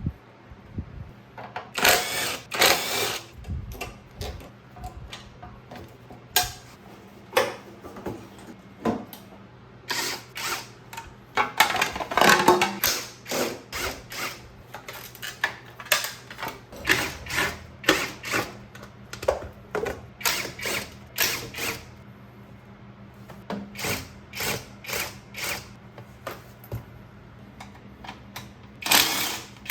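Hand tools working on motorcycle parts during disassembly: a long run of short metallic clicks and clanks, with a few longer rattling bursts.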